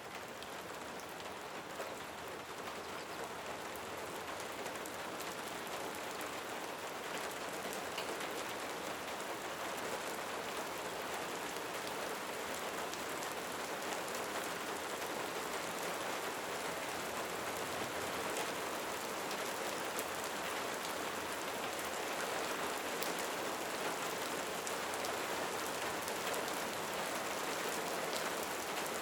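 Steady rain: a dense, even hiss of many drops with scattered sharper drop ticks, gradually growing a little louder.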